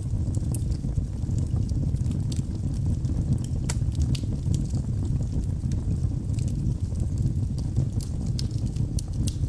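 Wood logs burning in a fireplace: a steady low rush of flame with scattered sharp crackles and pops.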